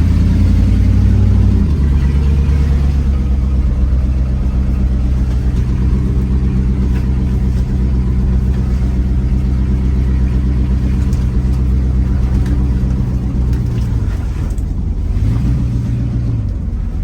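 First-generation Dodge pickup's engine running as the truck moves slowly under light throttle. Its note drops slightly about a second and a half in, holds steady, then rises briefly near the end before falling back.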